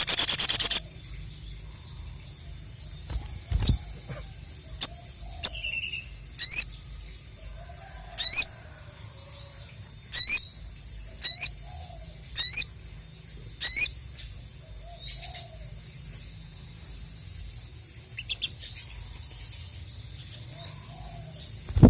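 A sogon (sogok ontong, a spiderhunter) calling: a loud burst right at the start, then a run of short, sharp upward-sweeping chirps roughly every second or two, over a faint continuous twitter.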